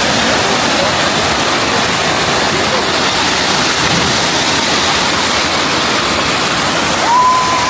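Waterfall rushing steadily into a pool, a loud even wash of falling water. Near the end there is a brief high steady tone over it.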